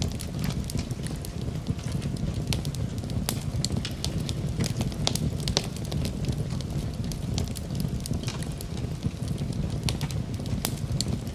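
Wood fire burning in a fireplace: a steady low rumble of flame with many irregular, sharp crackles and pops from the burning wood.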